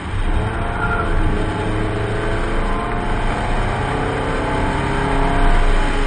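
A 1994 Rover 620 Si Lux's Honda F20Z1 SOHC 16-valve four-cylinder engine, pulling hard under load as the car is driven fast, its pitch rising and falling with the revs. Road and wind noise runs underneath.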